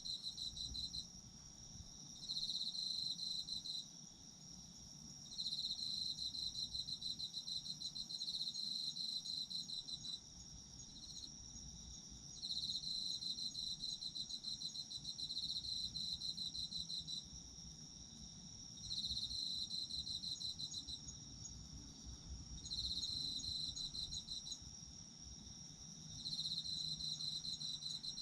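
Autumn crickets chirping. One keeps up a continuous high trill, while another sings in rapid pulsing bouts of one to five seconds with short pauses between them.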